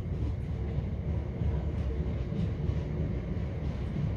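Passenger train in motion, heard from inside the carriage: a steady low rumble of wheels and running gear on the track.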